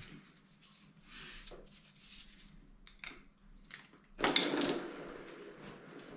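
Tools and metal engine parts being handled during an engine strip-down: scattered clicks and knocks, with a louder clatter about four seconds in.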